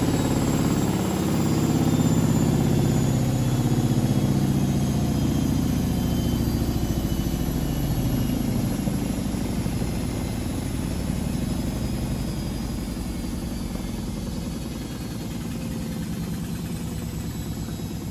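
Privileg SENSATION 952 S top-loader washing machine spinning its drum: a steady low motor hum with a faint high whine that slowly falls in pitch and level as the drum slows down.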